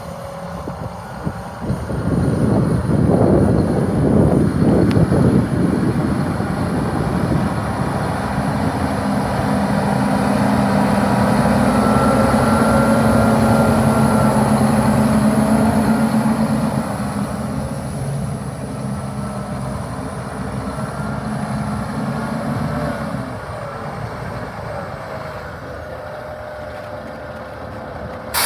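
2005 International 8600 truck tractor's diesel engine running. It rises a couple of seconds in, holds a steady higher speed for a long stretch, then drops back toward idle about 23 seconds in, with a thin high whistle over it throughout.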